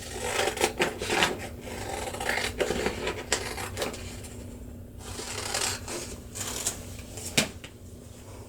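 Scissors cutting through a couple of stacked sheets of paper in short, irregular snips, with one sharper snip near the end.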